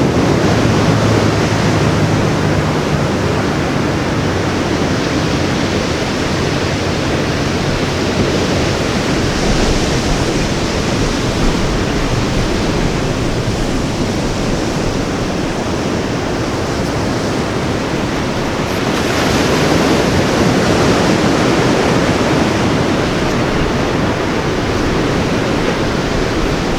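Ocean surf breaking and washing onto a beach, a steady rush of waves that swells a little louder past the middle.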